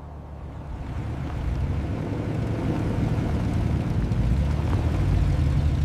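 Aircraft engine rumbling steadily, growing louder over the first few seconds.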